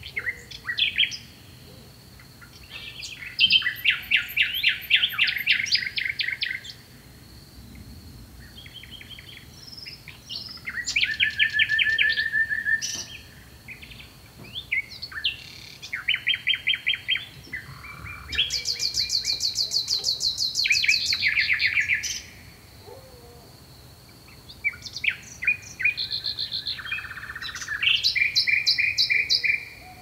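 Several songbirds singing, in bursts of fast trilled chirps a few seconds long with quieter gaps between, and a faint steady high tone underneath.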